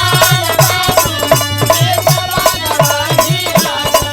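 Instrumental interlude of a Bhojpuri birha folk song: a steady hand-drum beat of about three to four strokes a second under a melodic instrument line, with a rhythmic metallic rattle.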